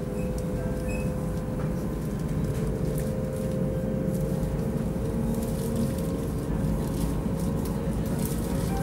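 Cabin noise of a Chinese high-speed EMU train running at speed: a steady low rumble with a steady hum over it.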